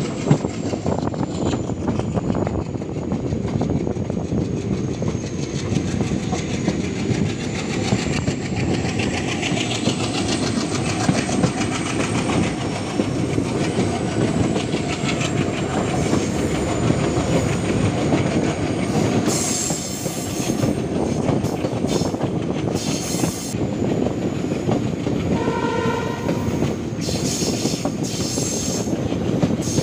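Passenger train running over the rails, heard from a coach window: a steady rumble with wheel clatter. Near the end the locomotive sounds one short horn blast.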